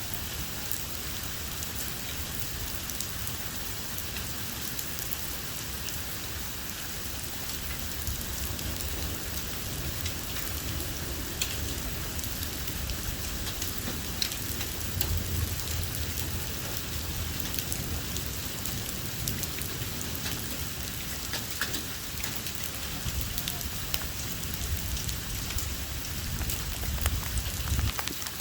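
Heavy thunderstorm rain falling steadily, with scattered sharp ticks of drops striking a surface and a low rumble that swells now and then.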